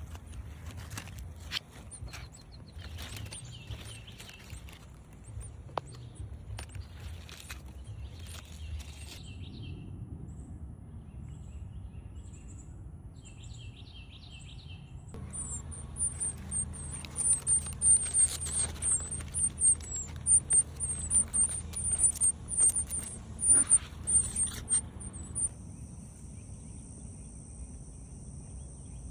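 Birds chirping, with a dense run of loud, rapid, very high-pitched chirps in the middle. A steady high insect buzz takes over near the end.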